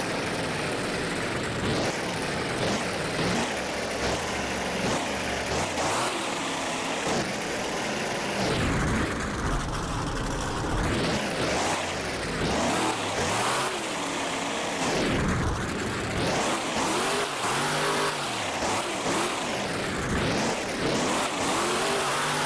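Big truck engine revving hard and falling back again and again, the pitch rising and dropping every second or two.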